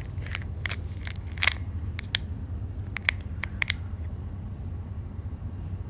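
A quick series of about a dozen sharp clicks and taps in the first four seconds, typical of a phone being handled and tapped to place a call, over a steady low hum.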